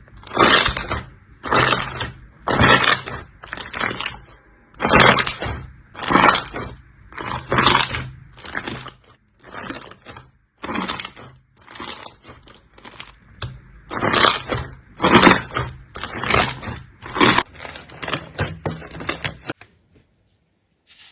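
Slime being squeezed and pressed by hand, giving repeated crackling, crunchy bursts about once a second. The bursts stop about a second and a half before the end.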